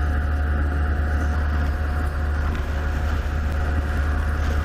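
Suzuki motorcycle cruising at a steady speed: wind rushing over the rider's microphone, with a low rumble and the engine running evenly underneath.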